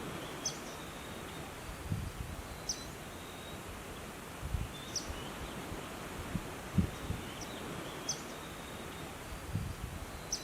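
A bird giving a short, high call repeated about every two seconds over a steady outdoor hiss, with soft low thumps in between.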